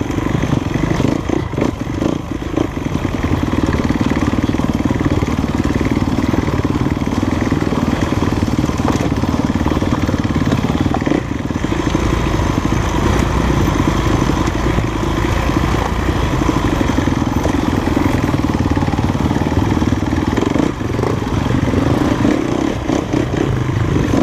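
Enduro dirt bike engine running steadily as the bike is ridden along, with little change in throttle.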